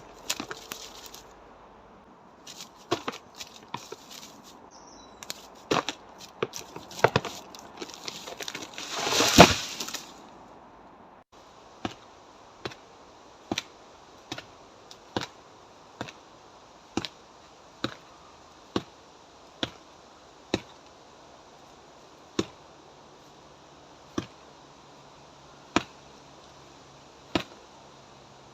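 Karate strikes landing on a dead tree trunk, each a sharp wooden knock. For the first ten seconds the knocks come irregularly, with a louder, longer crackling burst around nine seconds in. From about twelve seconds a steady series of single knocks follows at about one a second, slowing slightly near the end.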